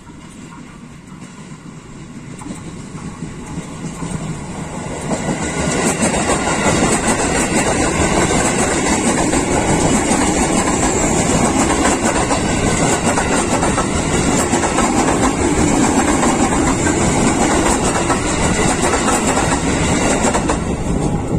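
A KRL commuter electric multiple unit approaching and then running past close by on the rails. It grows louder over the first few seconds and stays steadily loud as the cars go by.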